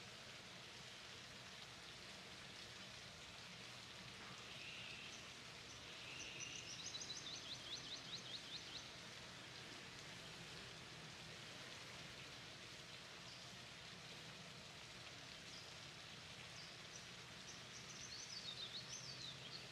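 Quiet garden ambience: a faint steady hiss, with a bird's quick run of high chirps about six to nine seconds in and another near the end.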